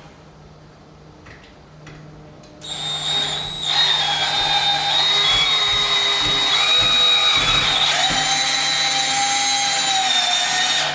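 Power drill driving screws into the lath-and-plaster repair: quiet at first, then about two and a half seconds in the motor starts and runs with a steady whine for the rest of the time, its pitch shifting slightly a few times.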